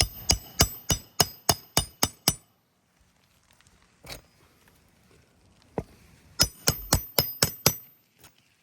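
Hammer driving roofing nails by hand into a replacement asphalt shingle: two runs of quick, ringing metal-on-metal strikes, about three a second, with a pause of a few seconds between them, one nail each.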